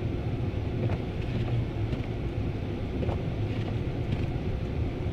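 Ford Crown Victoria's V8 running steadily with a constant low hum as the car pushes through deep snow, heard from inside the cabin along with tyre and road rumble.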